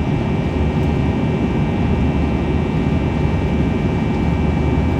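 Steady jet engine and airflow noise heard from inside the cabin of an Airbus A321: a constant low rumble with a faint high whine held steady.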